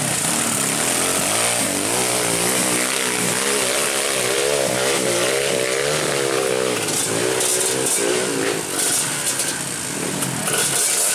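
Trail dirt bike engine revving hard, its pitch wavering quickly up and down with the throttle for several seconds before easing off near the end.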